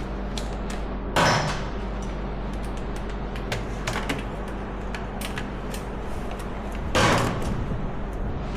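Hand work with tools and metal parts: scattered small clicks and taps, with two louder short scraping clatters about a second in and near the end, over a steady hum.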